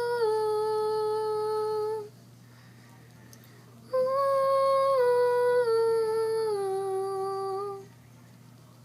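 A female voice humming two long wordless phrases, each stepping down in pitch, with a pause of about two seconds between them.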